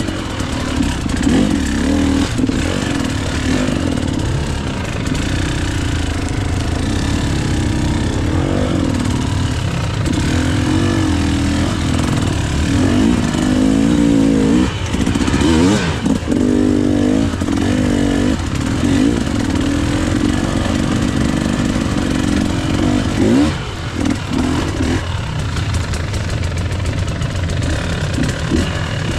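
KTM EXC 300 two-stroke single-cylinder enduro engine being ridden, its revs rising and falling over and over as the throttle is opened and closed.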